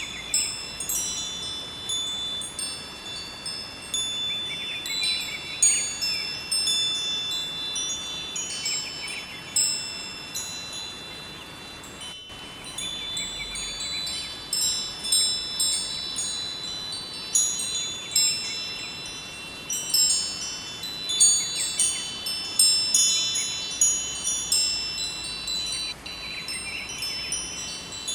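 Wind chimes ringing irregularly, many overlapping high tones struck and left to ring, over a steady hiss of running river water.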